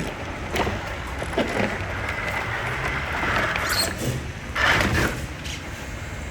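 Radio-controlled truck's small electric motor whining in short bursts as it crawls over obstacles, with tyres scrabbling and the chassis clattering, loudest about four and a half seconds in.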